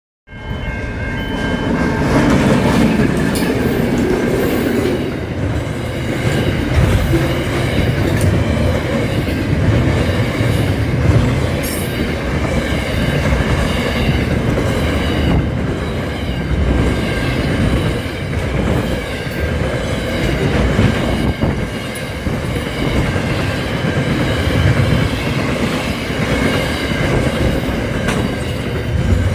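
Freight train running on the rails: a continuous rolling rumble from the wagons, with a steady high whine over it.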